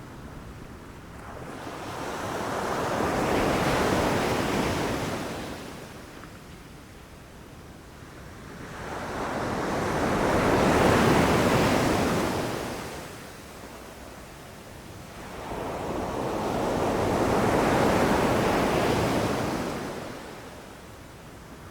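Ocean waves breaking and rushing up the shore in three surges about seven seconds apart, each swelling to a peak and then fading back.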